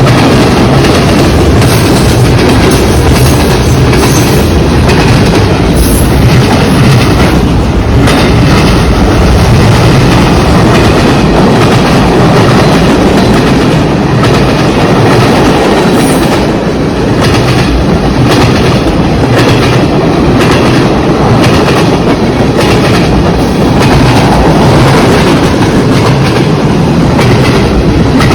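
CN freight train's cars rolling past in a loud, steady rumble, their wheels clicking over the rail joints.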